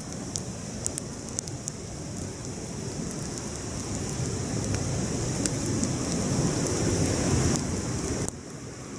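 Wood campfire burning, crackling with scattered sharp pops over a low rushing roar. The roar swells toward the end, then drops suddenly.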